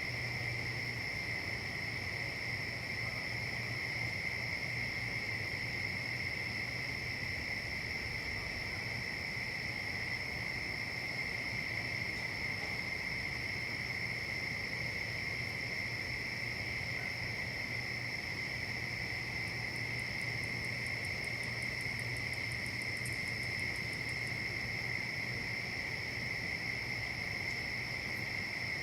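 A steady, unbroken chorus of insects trilling at two high pitches, with a low steady hum beneath. About two-thirds of the way through, a very high, rapid ticking trill joins for a few seconds.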